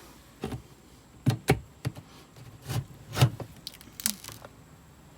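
A pry bar knocking and clunking against a camper's wall panel as it is levered loose, about six sharp knocks over three seconds, followed by a brief scrape near the end.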